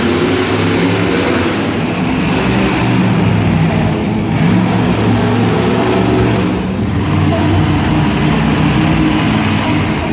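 Monster truck engine running loudly, its revs rising and falling continuously.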